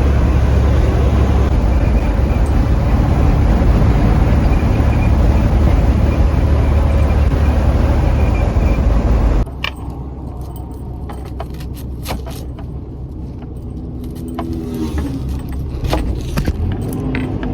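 Steady low rumble of road and engine noise inside a moving semi-truck's cab. About nine and a half seconds in it drops abruptly to a quieter rumble, with light rattling clicks and a few short tones after that.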